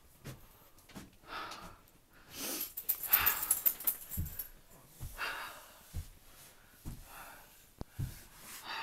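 A dog breathing hard and sniffing close to the microphone in short breathy puffs, about one a second, with a longer rustling stretch in the middle.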